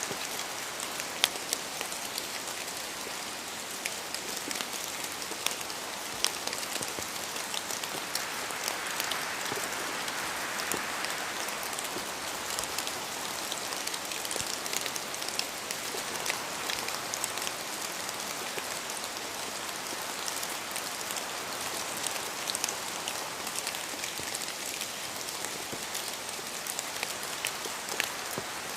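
Steady rain falling in a forest, with many separate drops from the trees pattering sharply over the hiss. The rain swells briefly about ten seconds in.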